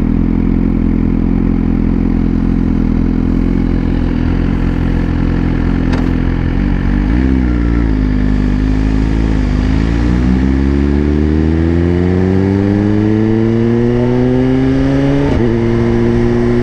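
Motorcycle engine heard through a helmet microphone. It runs steadily, dips and recovers briefly about seven seconds in, then revs up smoothly for about five seconds as the bike accelerates. Near the end the pitch drops suddenly as it shifts up a gear, and it settles at a steady note.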